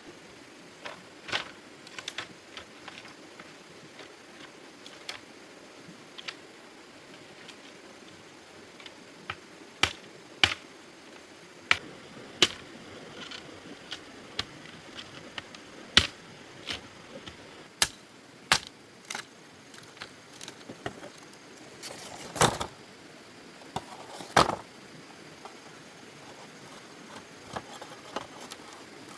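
Sharp clicks and knocks at irregular intervals, some much louder than others, over a faint steady hiss.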